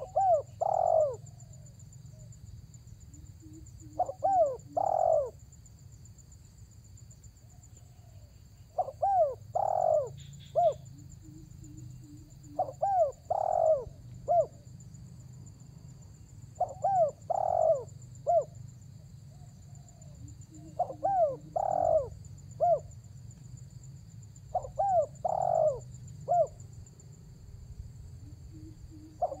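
Spotted dove (tekukur) giving its territorial cooing call to a rival. A phrase of three or four coos repeats about every four seconds, each followed by a few soft low notes. A steady low hum and a faint high whine run underneath.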